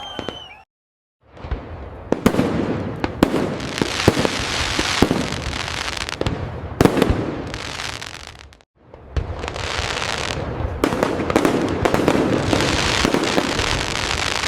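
Fireworks display: a dense barrage of crackling with many sharp bangs. The sound drops out completely twice, briefly about a second in and again about two-thirds of the way through, then resumes.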